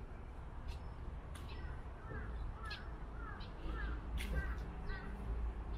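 A bird giving a quick run of about six short, falling calls, starting about two seconds in, over a steady low rumble, with a few sharp clicks.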